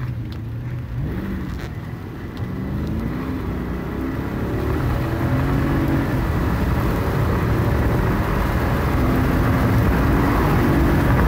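Mercedes-Benz CLK AMG V8 under hard acceleration from a standing start, heard from inside the cabin. The engine note climbs in pitch and drops back at each automatic upshift, growing louder as the car gains speed.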